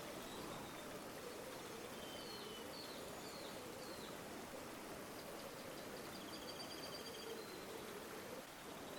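River water flowing steadily, with small birds calling over it: a few short chirps in the first half and a rapid trill of repeated notes around the middle.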